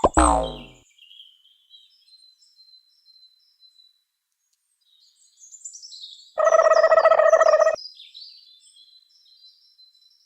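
Birds chirping faintly, with a falling sound-effect tone at the very start and a loud, steady pitched tone lasting just over a second about six seconds in.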